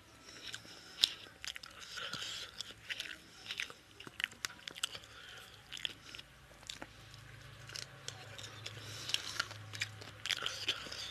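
Close-up wet chewing and lip-smacking of a person eating rice and chicken curry by hand, with many short sharp smacks and clicks; one loud click about a second in.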